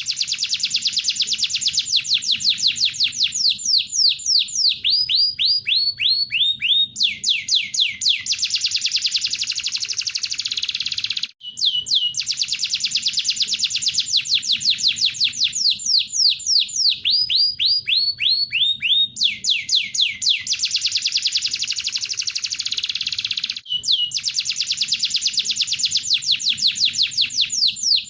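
Masteran bird-training recording of tengkek buto and canary song. It plays rapid trills of fast downward-sweeping chirps, and each phrase ends in slower, lower notes. The sequence repeats about every 12 seconds, with a brief gap between repeats.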